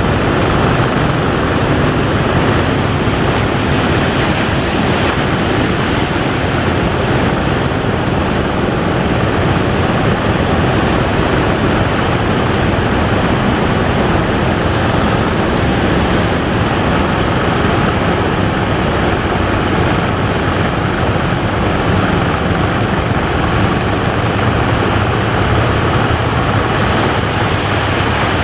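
Big ocean waves breaking at a river mouth, with wind on the microphone: a loud, steady roar of surf.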